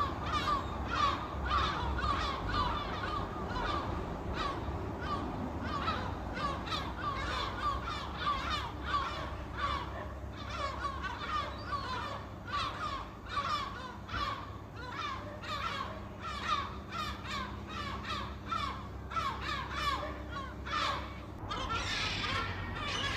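Many birds calling at once: short, harsh chirps and calls overlapping densely and without pause, over a steady low rumble.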